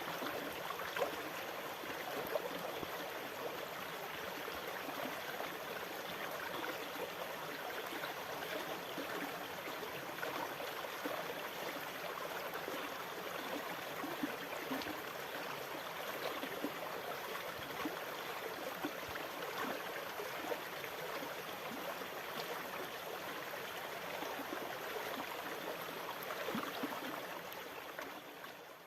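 Water running steadily with small trickles and splashes, without the swell of breaking waves, fading out near the end.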